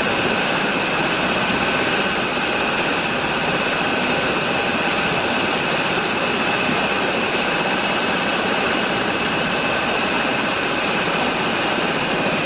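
Toy helicopter's steady whirring rotor noise as it takes off, an even hiss with a faint high whine in it.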